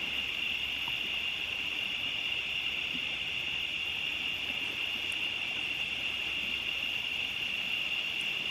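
Steady insect chorus of evening crickets: a continuous high-pitched buzz that holds at one pitch without a break.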